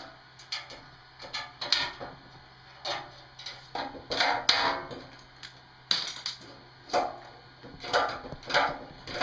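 Irregular knocks, taps and clanks, about one or two a second, some ringing briefly, as parts are handled and struck during hands-on building work.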